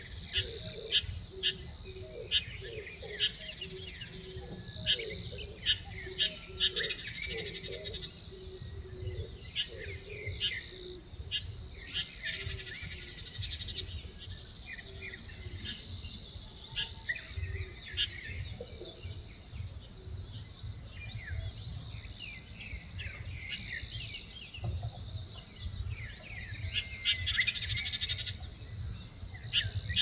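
Small birds chirping in the surrounding trees: many short, sharp chirps with a few busier spells of twittering, over a steady low rumble.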